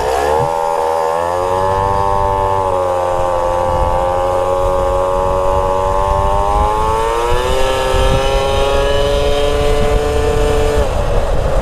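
Small moped engine running, its note dropping at the start, holding steady, then climbing again about seven seconds in before turning rougher near the end. The rider says the bike is not tuned and idles poorly.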